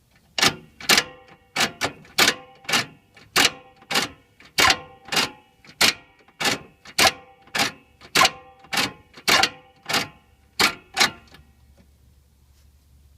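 A series of about twenty sharp metallic clanks, a little under two a second, each ringing briefly. They stop about two seconds before the end.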